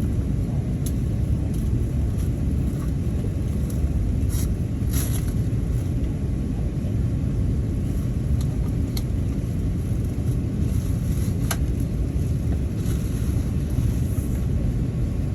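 Steady low rumble of cabin noise inside an Airbus A380 from its engines and airflow, with a few faint clicks over it.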